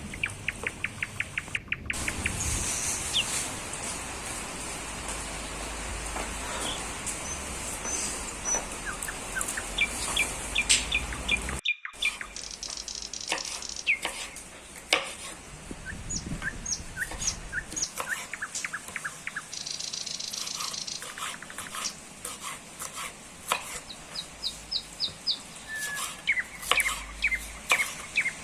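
Small birds chirping and singing throughout, with scattered sharp clicks and knocks, including a fast run of clicks at the start.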